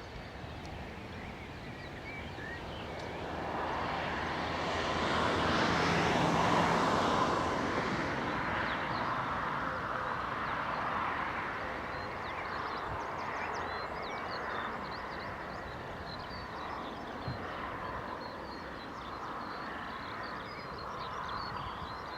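Aircraft noise swelling for about six seconds and then slowly fading, as an aircraft passes. Small high chirps from birds come in over the fading noise later on.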